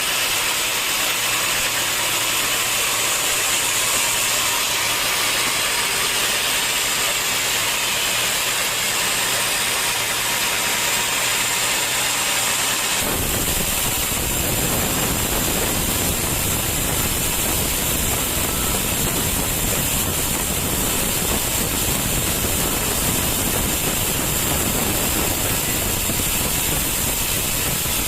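Sawmill saw running steadily with a hiss. About halfway through, the sound changes abruptly to a fuller, deeper noise that continues.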